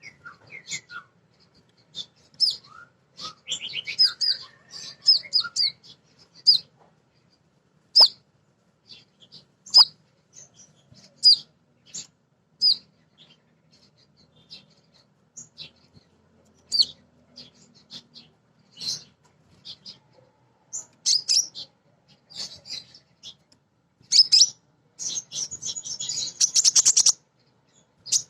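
Female sunbird (kolibri ninja) giving a string of short, high, sharp chirps at irregular intervals, with a fast rattling run of notes near the end. These are calls of a female calling for a male.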